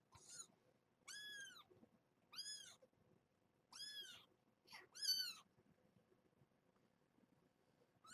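Young kitten, about two weeks old, mewing: a run of five or so short, high-pitched mews, each rising and falling in pitch, over the first five seconds or so.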